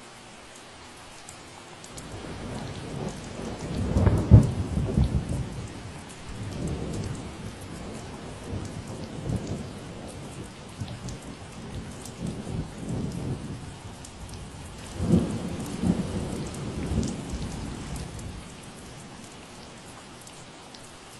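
Steady rain falling, with a long low roll of thunder that builds about two seconds in, is loudest a couple of seconds later, swells again after about fifteen seconds, then dies away near the end.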